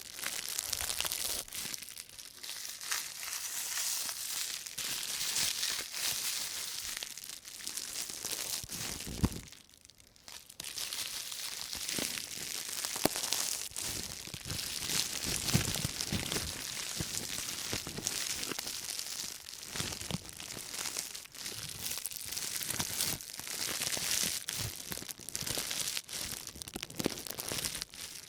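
Thin white plastic shopping bag crinkling and crackling as hands in rubber gloves rub and crumple it, with a brief lull about ten seconds in.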